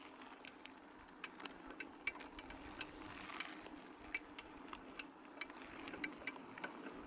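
Push bike being ridden: faint, irregular ticks and light rattles from the bike over a steady low hum.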